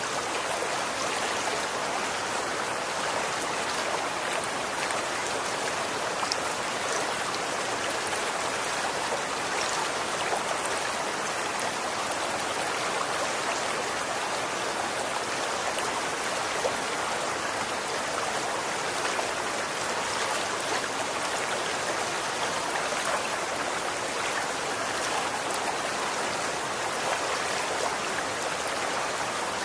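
Running water: a stream flowing steadily, an even rushing noise with small splashes and droplet ticks scattered through it.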